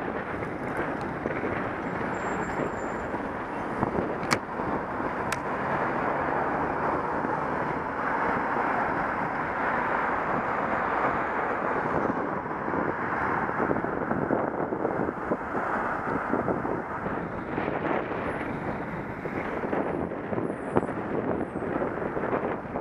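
Steady wind rushing over the microphone of a Contour action camera on a moving bicycle. Two faint clicks come about four and five seconds in.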